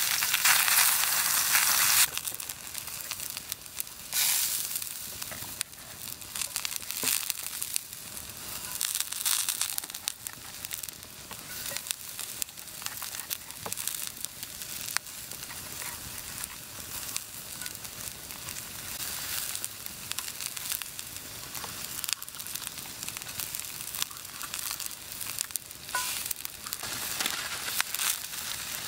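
Ground beef sizzling in a cast iron skillet over a wood fire, with scattered small pops and crackles. The sizzle is loud for the first two seconds, then drops suddenly to a quieter, steady sizzle.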